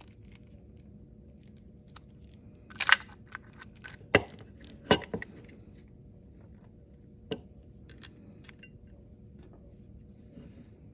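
Hand work on a motorcycle ignition: scattered clicks and knocks of tools and parts being handled, with three louder knocks around the middle and a sharp one a few seconds later.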